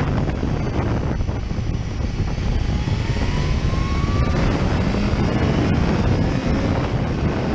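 Motorcycle on the move, wind rushing over the microphone with the engine note faintly under it, rising as the bike accelerates and dropping about four seconds in, as at a gear change, before climbing again.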